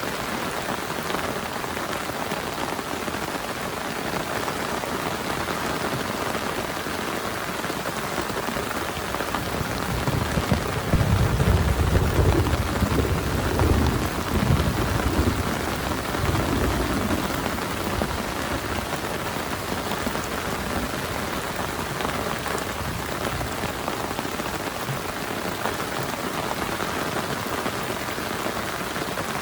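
Heavy rain falling steadily, with a long low rumble of thunder starting about ten seconds in and dying away over about seven seconds.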